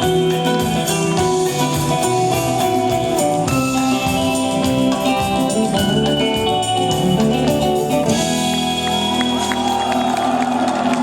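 Rock band playing an instrumental passage to close the song, with guitar to the fore over sustained chords.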